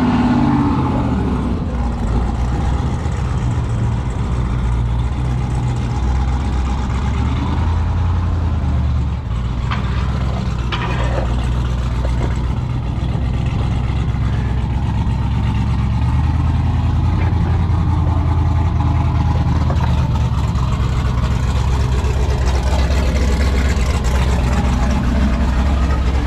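Vehicle engine running steadily at low speed, a deep even drone that shifts in level around 9 seconds in and again around 16 seconds in.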